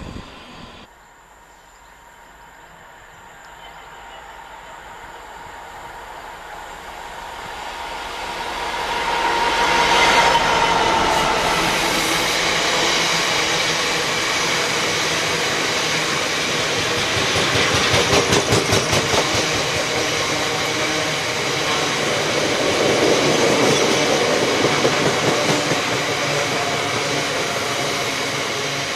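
Freight train of Drax biomass hopper wagons running through a station on the near line. It builds up as it approaches, is loudest about ten seconds in as the front draws level, then the wagons roll past steadily with a rapid clickety-clack of wheels over rail joints that comes and goes twice.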